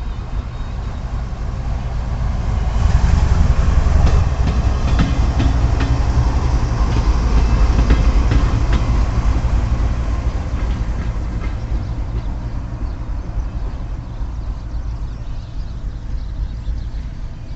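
A heavy Indian Railways locomotive and its train passing. The sound swells about three seconds in, with a run of wheel clicks over the rail joints for several seconds, then fades slowly away.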